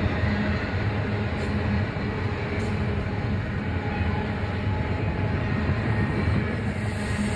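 Train running by: a steady low rumble with an even engine drone.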